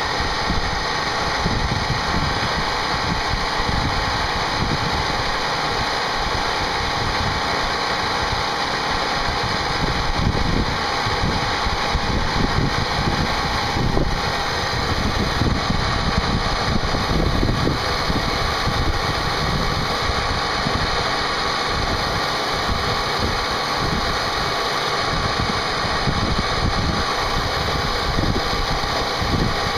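A CNC machine running its first part program, the spindle cutting steadily with a constant whine and one brief click about halfway through.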